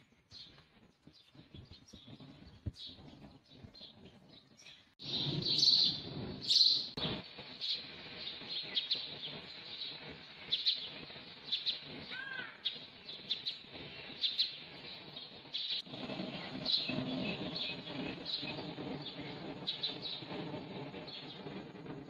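Dawn chorus of many small birds chirping and twittering in quick short calls, growing suddenly louder about five seconds in, over a low steady background noise.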